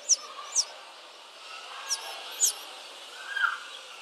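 Small caged birds chirping: four short, high chirps that each drop quickly in pitch, spaced unevenly, then a lower, louder whistle-like note about three and a half seconds in.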